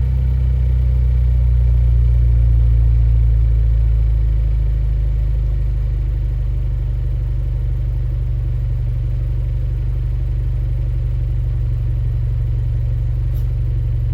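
Volkswagen Golf 7 Variant's exhaust, running steadily with a low rumble that swells slightly about two seconds in and then settles. The stock main silencer is removed and a modified Suzuki Swift Sport (ZC33S) centre silencer is fitted in its place.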